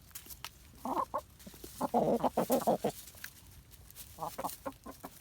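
Buff Orpington hens clucking: a couple of clucks about a second in, a quick run of clucks around two seconds in, then a few more near the end.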